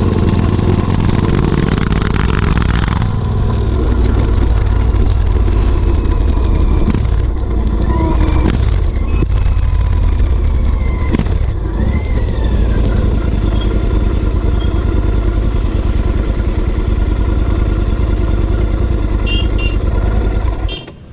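Royal Enfield Interceptor 650's parallel-twin engine running through a Motowings aftermarket exhaust, giving a loud, deep, steady rumble. The sound cuts off abruptly near the end.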